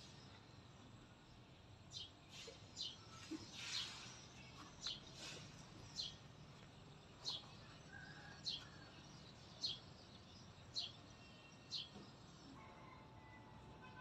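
A bird calling repeatedly in short, faint, high chirps, roughly one a second, over faint outdoor background noise.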